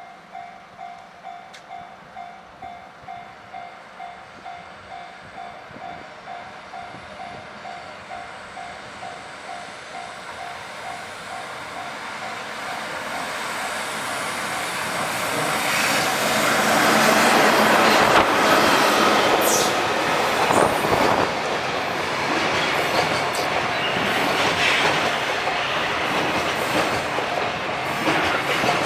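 Level-crossing warning bell ringing in a steady pulse about twice a second, then a freight train approaches and passes over the crossing, growing loud about two-thirds of the way in and covering the bell, with the rhythmic clack of its wheels over the rail joints.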